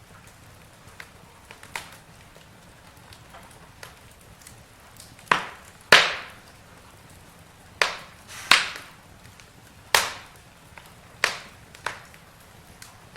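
Campfire wood burning: sharp crackling pops over a faint steady hiss, a few small pops at first, then about seven loud ones in the second half.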